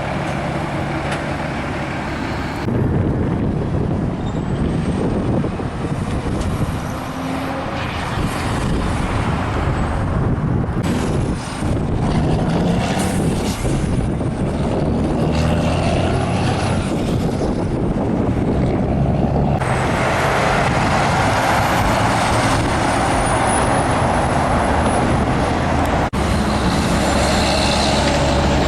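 Heavy trucks driving past on a highway: diesel engines running and tyre and road noise, with the sound changing abruptly a few times.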